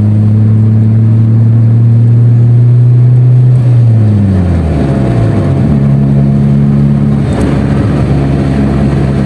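Honda Civic's SOHC four-cylinder engine pulling on the road at a steady note. About four seconds in, the note drops in pitch, runs rough for a moment, then settles into another steady note.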